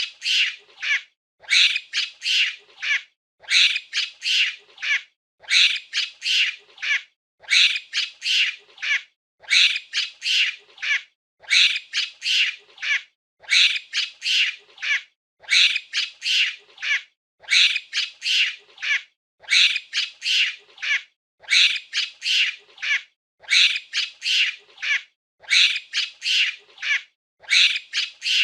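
Monkey giving short, high-pitched squeaking calls in quick clusters of three or four, the same pattern repeating about every two seconds.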